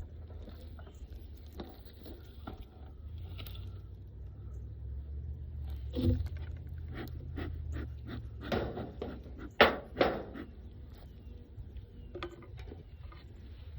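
Scrapes and knocks of beehive boxes and frames being handled during a hive inspection, with a cluster of louder knocks about two-thirds of the way through, over a steady low rumble.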